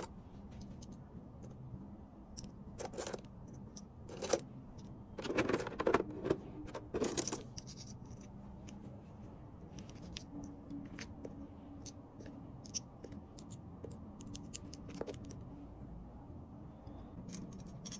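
Small note clips clicking and clattering as they are handled and packed. A louder run of rattling comes about five to seven seconds in, then scattered light ticks.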